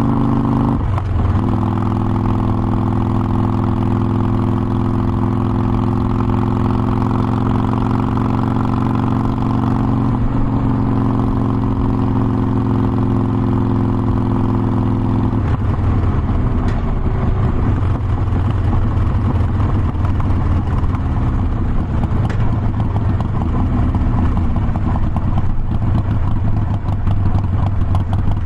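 Harley-Davidson Forty-Eight Sportster's air-cooled 1200 cc V-twin running on the move. The note changes about a second in, holds steady for a long stretch, then drops to a lower, rougher note a little past halfway.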